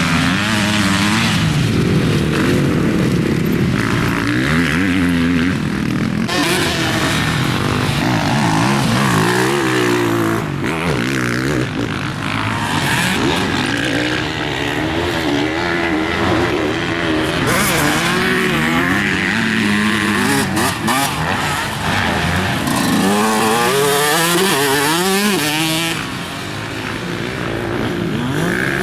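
Motocross bike engine revving up and down as the bike is ridden around a dirt track, the pitch rising and falling again and again with the throttle and gear changes.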